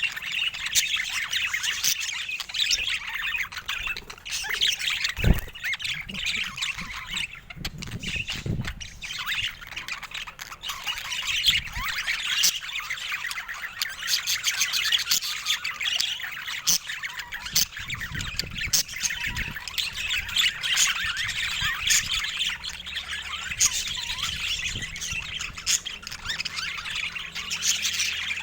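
Several budgerigars chattering and warbling without pause, with squawks and sharp clicks mixed in.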